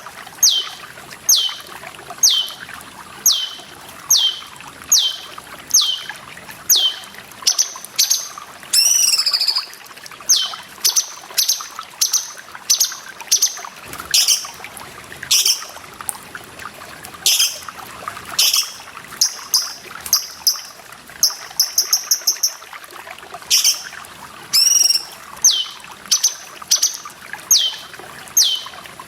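Cucak cungkok singing: a steady series of clear whistled notes, each falling sharply in pitch, about two a second, broken around the middle by a few different calls and a quick rattle of short notes. Water trickles steadily underneath.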